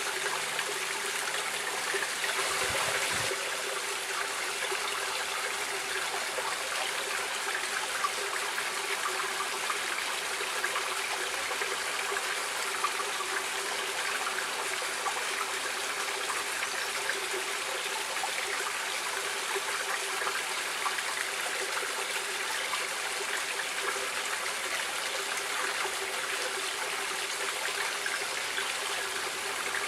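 Stream water running steadily: an even rushing hiss with a faint constant low tone and occasional small splashes.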